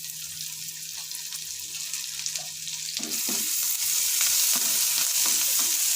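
Chopped garlic sizzling in butter and oil in a kadai. The sizzle grows louder about three seconds in as chopped ginger goes in, followed by a few scrapes of a stirring spatula.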